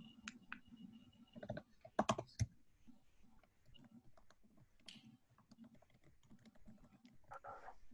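Typing on a computer keyboard: irregular, quiet key clicks, with a few louder clicks about two seconds in.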